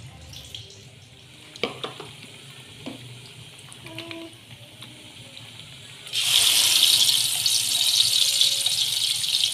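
Ground red chili spice paste hitting hot oil in a wok and sizzling loudly, starting suddenly about six seconds in: the paste being sautéed. Before that, a few light knocks and clicks from kitchen handling.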